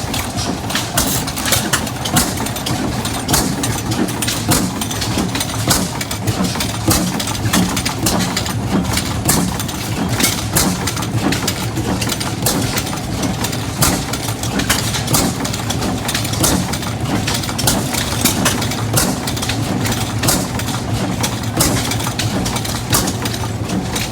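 Small Economy stationary gas engine running, its sharp exhaust pops coming at irregular intervals over a steady low hum of engines.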